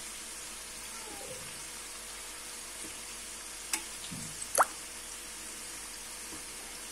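Gujiya frying in oil in a steel kadhai on low heat, a steady, fairly quiet sizzle from oil that is not yet very hot. Two short sharp ticks about a second apart midway through.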